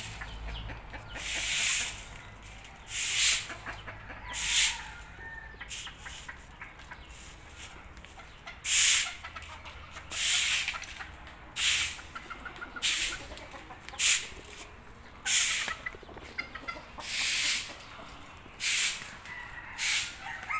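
Domestic chickens clucking, over a loud hissing or rustling burst that repeats about every second and a half.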